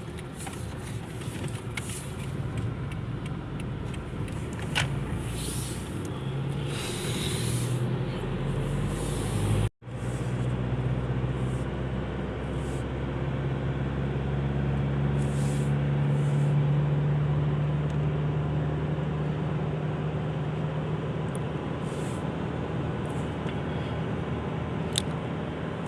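Engine and road noise of an Isuzu being driven, heard from inside the cab: a steady low engine hum that grows a little louder past the middle. The sound cuts out for an instant about ten seconds in.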